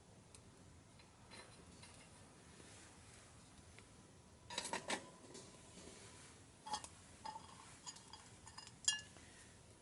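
Light metallic clinks and clanks of metal camping gear being handled, each with a short ring: a quick cluster about halfway through, then a few scattered clinks, the loudest one near the end.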